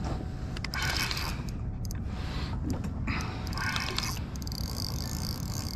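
Fishing tackle being handled on a kayak: irregular mechanical scrapes and clicks from a spinning reel and line work, over a steady low rumble.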